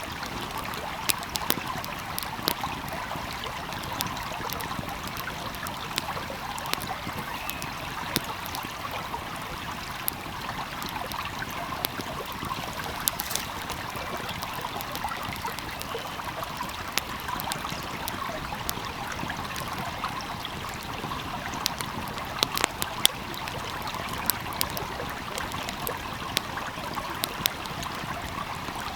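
Steady babbling of a small flowing stream, with irregular sharp crackles and pops from a wood fire scattered through it, a few coming close together about three-quarters of the way in.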